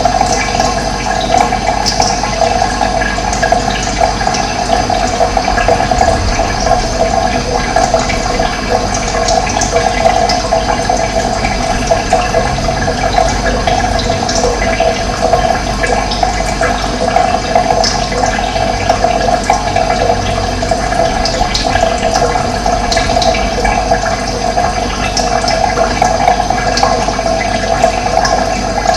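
Running water, a steady even rush, with a few faint high bird chirps now and then.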